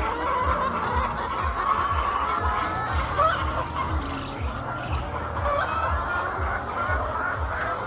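A flock of laying hens clucking, many calls overlapping without a break.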